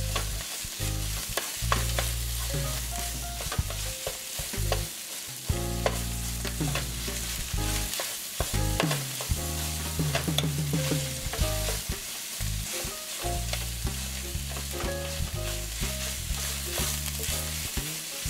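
Loose Italian sausage meat sizzling as it fries in a pan, while a wooden spoon scrapes and pushes through it to break it into bite-sized pieces.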